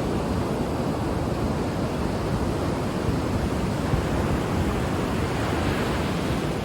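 Ocean surf washing on a shore: a steady rush of wave noise, its higher hiss swelling a little about two-thirds of the way through.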